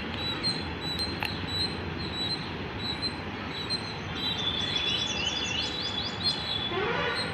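Small birds chirping: a short high chirp repeated about twice a second, with a quicker run of chirps about four seconds in, over steady background noise.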